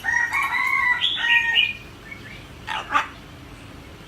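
Pet talking parrot calling: a held, steady call about a second long, then a few higher, shifting notes, and a short sharp squawk about three seconds in.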